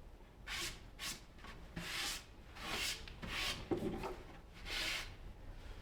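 Faint strokes of something rubbing across a wood surface, about seven short scratchy passes at an uneven pace.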